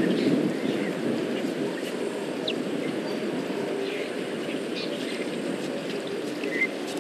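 Scattered short bird chirps over a steady low background noise, with one slightly louder chirp near the end.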